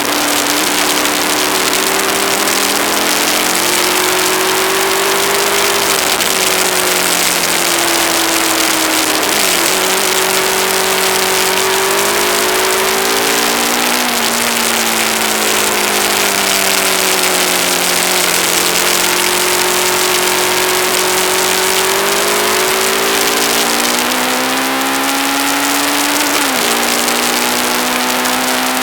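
Aprilia ETV1000 Caponord's V-twin engine pulling on the road, its pitch rising and falling with gear changes, dropping sharply about a third of the way in, about halfway, and again near the end. A heavy rush of wind on the microphone sits over the engine throughout.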